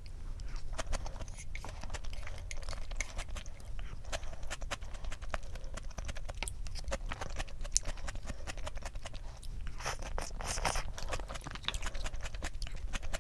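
Close-up eating sounds: a person chewing salmon sashimi and crisp sliced vegetables, with many small wet mouth clicks and crunches, a little denser about ten seconds in.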